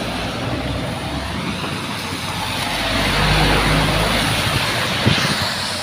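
A lorry driving past, its engine and tyre noise swelling to a peak about three seconds in, then easing off.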